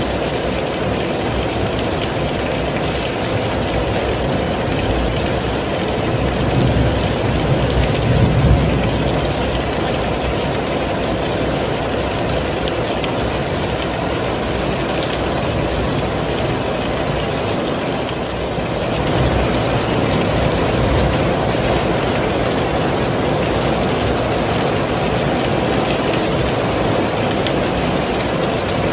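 Heavy rain falling steadily, a dense, even rush. There is a low rumble that swells briefly about seven seconds in.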